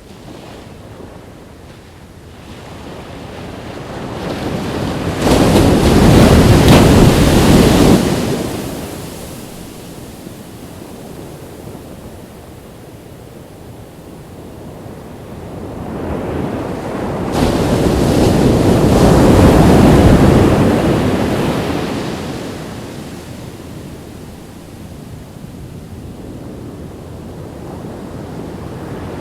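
Ocean waves breaking on a beach, with two big surges about five seconds and seventeen seconds in, each building up, crashing and washing back. Wind rumbles on the microphone in between.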